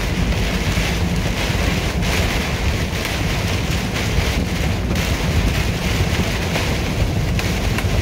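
Steady rain and road noise heard inside a moving vehicle on a wet highway: rain on the windshield and tyres hissing on the wet road over a deep, even rumble.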